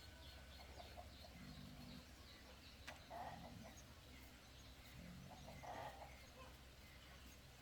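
Chickens clucking faintly in short, scattered calls, with a single click just before the middle.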